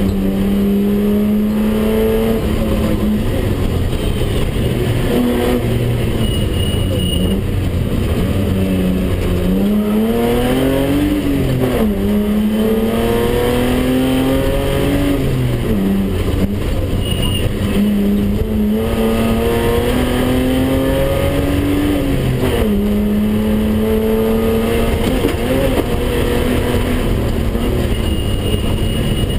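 In-cabin sound of a BMW 320/6's straight-six engine driven hard through the gears: its pitch climbs under acceleration, drops sharply at each gear change and falls away when lifting off, over and over, with road noise underneath.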